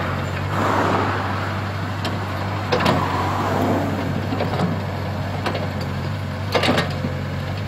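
Komatsu PC75 excavator working, its diesel engine running steadily with louder surges as it works and a few sharp metallic knocks, one about three seconds in and a pair near the end.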